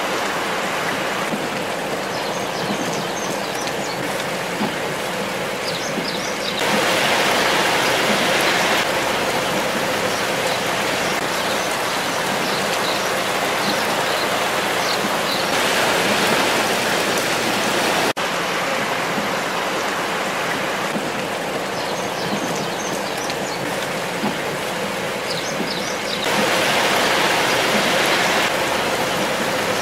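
Heavy rain pouring onto a flooded street, a steady hiss of rain splashing into standing water. It swells louder for a couple of seconds three times.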